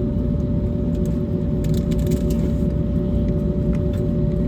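Steady low cabin rumble of an Airbus A321neo on the ground after landing, with a constant engine hum tone. A few light clicks and rattles come about one and a half to two and a half seconds in.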